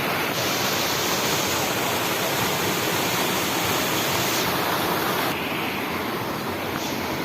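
Rushing water of a spring-fed waterfall, a loud steady hiss of falling water. Its tone changes abruptly near the start and again about five seconds in.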